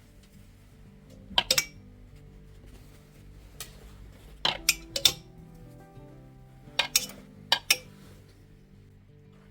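Dishes and cutlery clinking in three short clusters of sharp clinks over soft background music.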